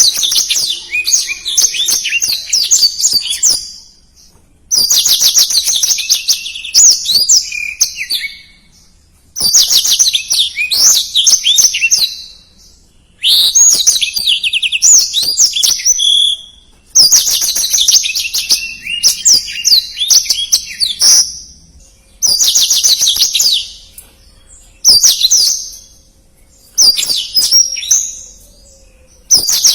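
Blackthroat (black-throated canary) singing: fast, dense trilling song phrases of three to four seconds each, repeated with short pauses of about a second between them.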